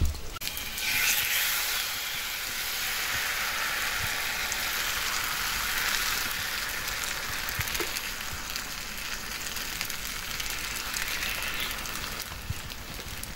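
Food frying in hot oil: after a brief knock, a loud sizzle starts suddenly about a second in and carries on steadily.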